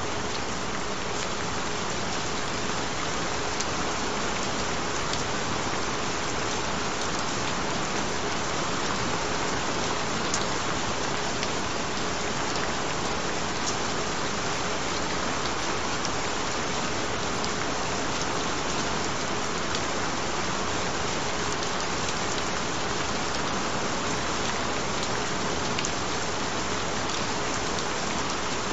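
Steady rain with a faint steady tone running underneath it.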